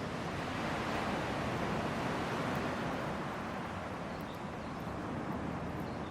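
Hardwood campfire burning: a steady rushing hiss of flames that swells a little and eases, with a few faint crackles.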